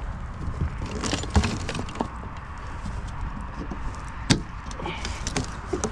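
Hand tools clinking and knocking against metal boat hardware while a bolt is worked loose: a few scattered sharp clicks, a cluster about a second in and the loudest single knock a little past four seconds, over a steady low rumble.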